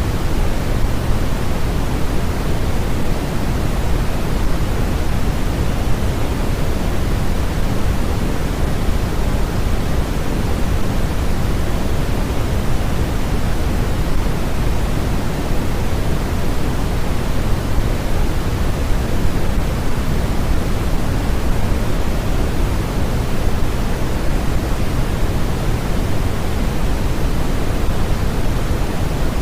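Continuous synthetic noise of the kind played for sleep and focus: an even, unchanging rushing hiss, heaviest in the low end.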